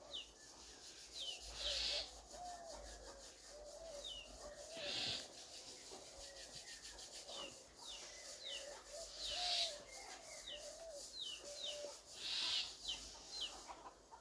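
Birds calling: many short high chirps that slide downward, lower wavering notes, and a harsh rasping sound every couple of seconds.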